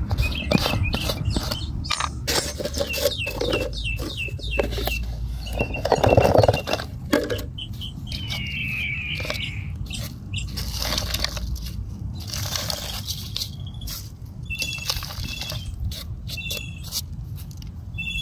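Birds chirping in short, repeated high notes, with one longer wavering call about eight seconds in, over rustling and clicking close to the microphone.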